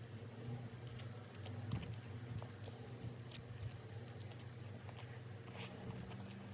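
A person chewing and biting food, with scattered small clicks and taps, over a steady low hum.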